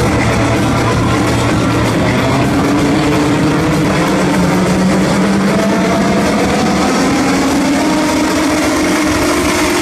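Electronic dance music played loud over a club sound system, in a breakdown: held synth chords and a slowly rising sweep, with the steady low kick dropping out about two seconds in.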